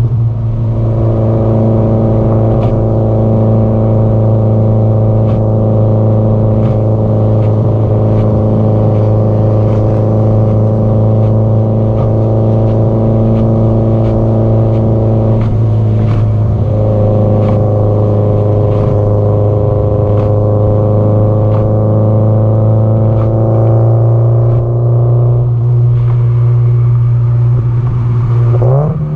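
Subaru Impreza GDB-E's turbocharged flat-four running through an aftermarket muffler at a steady cruise, a low, even exhaust drone. The note wavers briefly twice, then rises quickly as the engine revs up near the end.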